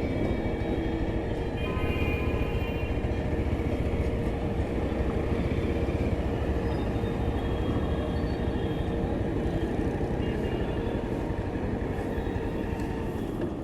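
Motorcycle on the move: steady road and wind noise with a steady engine hum that fades out near the end, and brief higher tones, like a distant horn, about two seconds in.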